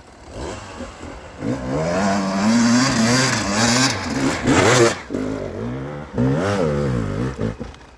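Dirt bike engine revving hard up and down under load on a steep hillclimb, its pitch rising and falling repeatedly with the throttle, easing briefly about five seconds in.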